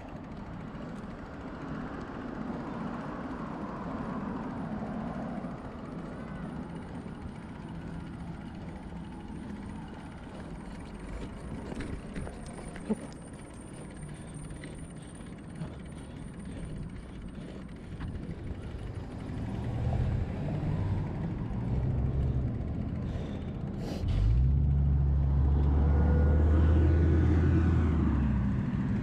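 Steady wind and road noise on a bicycle-mounted action camera. A heavy road vehicle's engine then runs close by, building up and getting louder with a sharp hiss about two-thirds of the way in.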